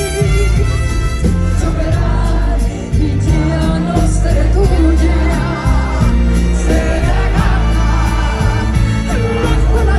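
Live pop ballad: a band with a heavy bass plays while a woman sings long held notes with a wavering vibrato.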